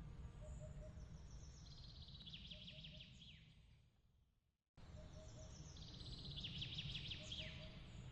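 Quiet outdoor ambience track: a bird's rapid trills of chirps over a steady low rumble. About four seconds in the sound fades away to a brief silence, then cuts back in abruptly and the same trill repeats, as at the loop point of a recorded ambience.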